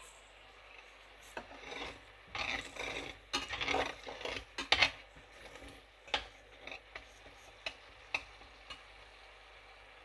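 Spice paste being stirred and scraped in a bowl, in irregular rubbing strokes, followed by a few sharp separate taps.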